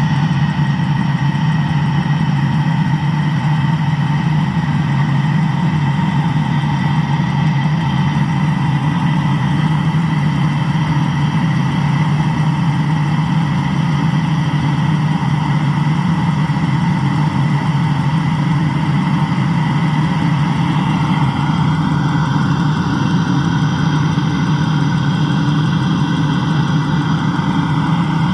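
Land Rover engine idling steadily after a repair of its engine block.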